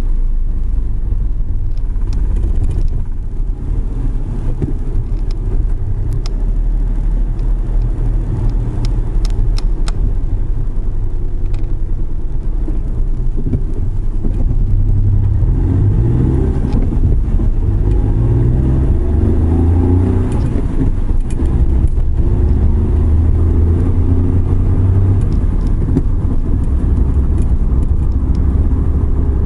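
Suzuki Every Wagon kei van on the move, its engine and road noise a steady low rumble; past the middle the engine note rises in pitch a few times in steps as it accelerates.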